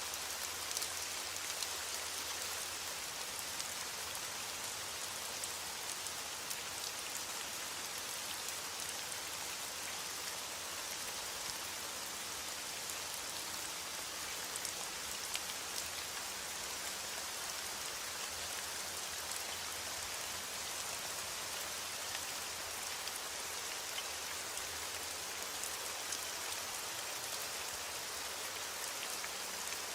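Steady rain falling on a surface, an even hiss with many fine drop ticks and a few louder drops here and there.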